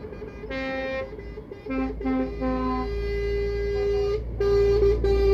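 Truck horns sounding: a short blast, then three quick toots and a long steady blast that breaks off once and starts again. Underneath runs the low rumble of a truck engine passing.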